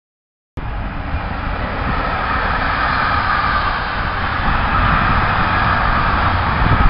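Train running: a loud, steady rumble with a rushing hiss that cuts in abruptly about half a second in after dead silence and swells slightly.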